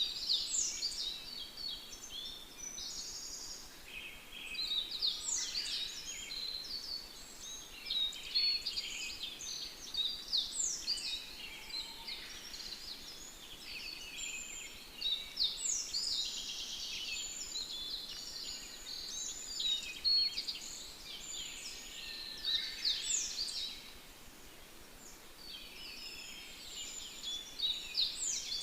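Songbirds chirping and singing, many short overlapping calls and quick downward-sweeping notes, a little quieter for a few seconds near the end.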